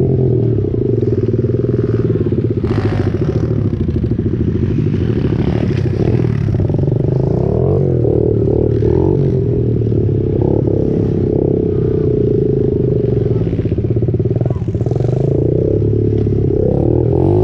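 Pit bike engine running under way, its revs rising and falling, with a few knocks and clatters.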